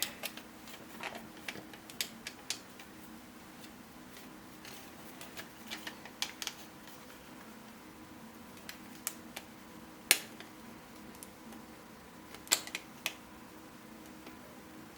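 3D-printed plastic puzzle pieces clicking and knocking as they are handled and pushed together. Scattered sharp clicks, the loudest about ten seconds in and another pair near the end, over a faint steady hum.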